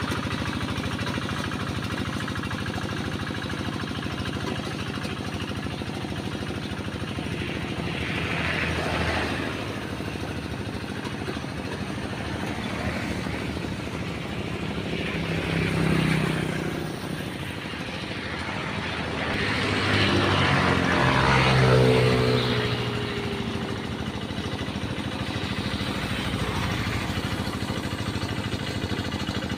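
Tractor engine running steadily while ploughing a flooded rice paddy. It grows louder three times, the longest and loudest swell coming about two-thirds of the way through, with a shifting pitch.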